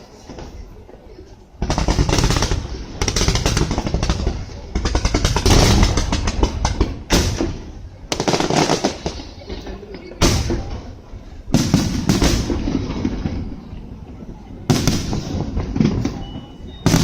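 Fireworks display going off in a series of loud bangs with dense crackling, a fresh volley every one to three seconds, with crowd voices underneath.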